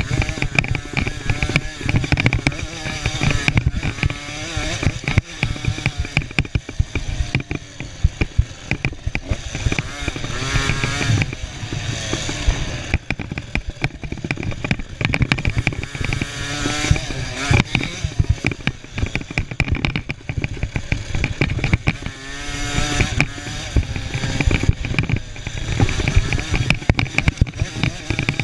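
Small 50cc two-stroke motocross bike engines revving, their pitch rising and falling again and again as the throttle opens and closes.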